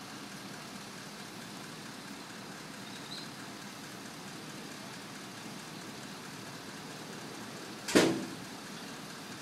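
Steady, even running noise of a crane truck's engine, with one sudden loud sound, short and reaching across the whole range, about eight seconds in.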